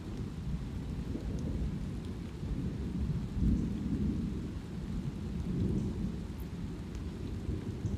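Light rain with deep, rolling thunder rumbling under it, the thunder swelling louder about three and a half seconds in and again near six seconds.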